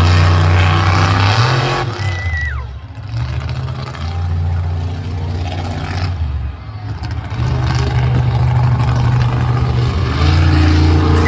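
Monster truck engine revving hard, with the throttle opening and closing. The engine is loud at first, drops off about two seconds in and again around six seconds, then builds back up near the end.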